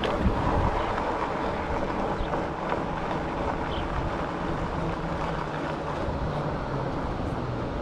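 Wind rushing over the microphone with tyre and road noise from an e-bike (Rad Rover fat-tyre e-bike) riding along. A faint steady low hum joins about halfway through.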